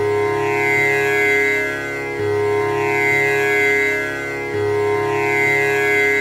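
Tanpura drone: its strings are plucked in turn in a steady cycle that starts over about every two and a half seconds, with a deep low-string pluck about two seconds in and again about four and a half seconds in. The sustained notes carry the tanpura's buzzing, shimmering overtones.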